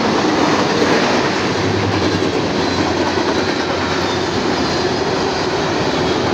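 Covered hopper cars of a CSX mixed manifest freight train rolling past, their steel wheels running on the rails in a steady, loud noise.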